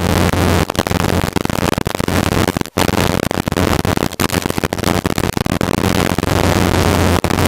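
Helicopter in flight heard from the cabin: a loud, steady drone of engine and rotor with a strong low hum, cut by frequent brief crackling dropouts.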